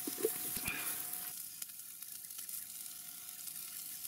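Sliced onions sizzling in hot oil in a cast-iron pot over a wood fire, with a steady frying hiss. There are a few light knocks in the first second.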